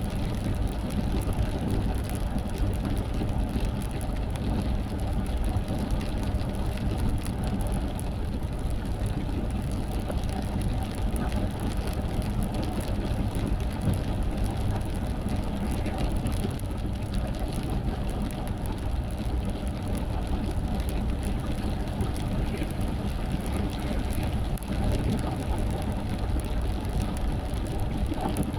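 Steady running noise of a car driving in the rain, with engine and tyre noise and rain on the car, even throughout.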